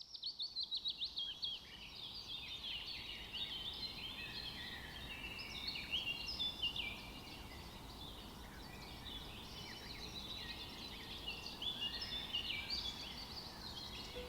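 A chorus of many birds chirping and singing together: a dense run of quick, high notes overlapping one another, with a fast series of falling chirps at the very start.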